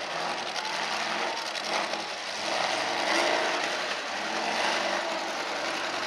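Several demolition derby cars' engines running and revving together as the cars drive about and push into each other, with a dense, noisy mix that grows louder a little over halfway through.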